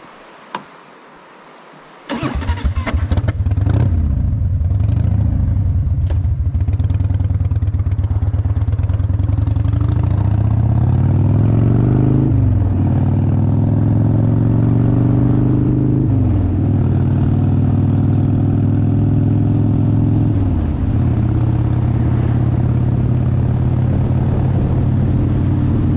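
Motorcycle engine cranking and catching about two seconds in, then accelerating away, its pitch climbing and dropping at three gear changes before holding steady.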